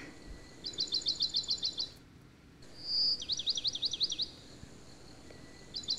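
A small bird chirping in quick high trills of about ten chirps a second. Two full trills are separated by a short whistled note, and another trill starts near the end.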